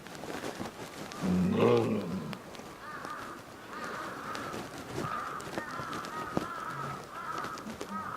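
Crows cawing repeatedly, a string of short arching calls, after a short, low pitched call about a second in.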